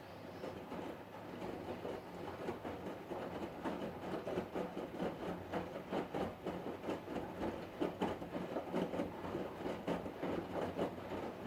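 Hotpoint Ariston washing machine running, a steady hum from the turning drum with a fast, even rhythmic knocking that grows a little louder after about four seconds.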